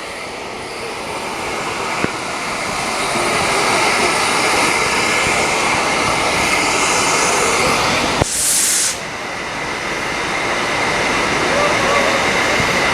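Steam tank locomotive letting off steam: a loud, steady hiss that grows louder over the first few seconds, with a short, sharper burst of hiss about eight seconds in.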